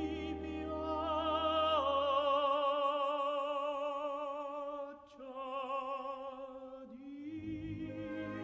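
Operatic singing with orchestra: long held notes sung with wide vibrato, stepping down in pitch about two seconds in, with short breaks between phrases.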